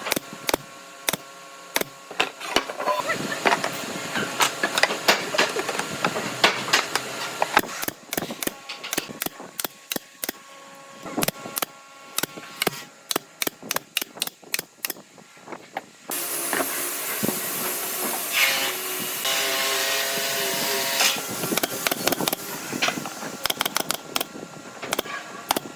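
Workshop noise: a quick run of sharp knocks and taps, then about two-thirds of the way through a steady hissing noise comes in and runs on.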